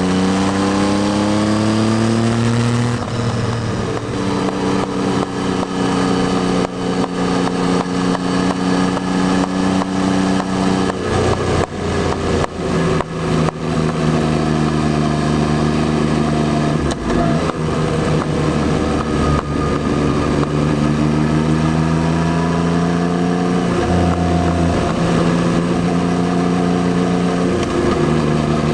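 Yamaha Tracer 9's 890 cc three-cylinder engine under way, its pitch climbing under acceleration and then dropping sharply at upshifts, several times over. About halfway through, the note breaks up into an uneven, crackly stretch on a closed throttle before it pulls up through the revs again.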